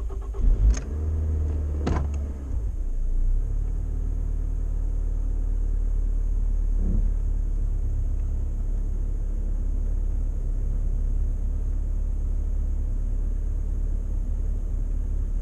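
A car starting up, with a few sharp knocks and clicks in the first two seconds, then a steady low rumble of the car running. This is a test drive to check whether the slow-stop brake noise is gone.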